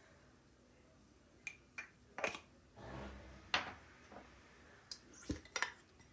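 Light clicks and knocks of objects being handled and set down, about eight at irregular intervals, with a short soft rustle-like swell in the middle.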